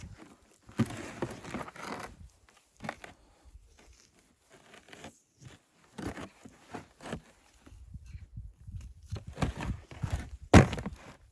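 Irregular crunching and rustling with short pauses between, then one loud, sharp knock near the end.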